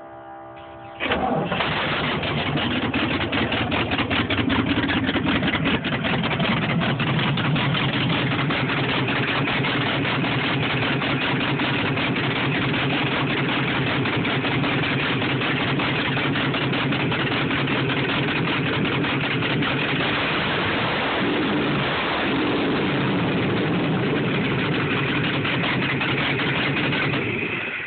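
Ford engine catching about a second in, then running steadily and loudly.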